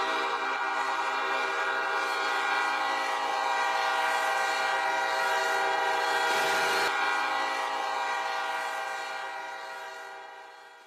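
Train horn held in one long, steady chord. A brief rushing noise comes about two-thirds of the way in, and the horn fades out near the end.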